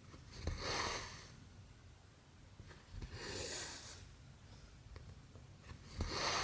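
Cotton embroidery thread pulled through cross stitch fabric, three times: each stitch starts with a soft knock as the needle goes through and follows with a short rasping swish of thread, one about every three seconds.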